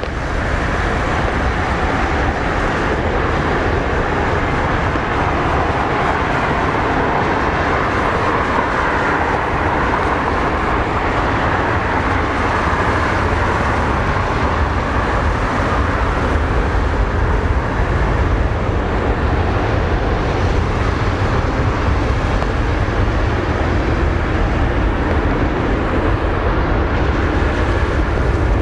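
Turbofan engines of a Boeing 737-700 BBJ running at takeoff thrust on a wet runway: a loud, steady jet noise that swells slightly as it goes on.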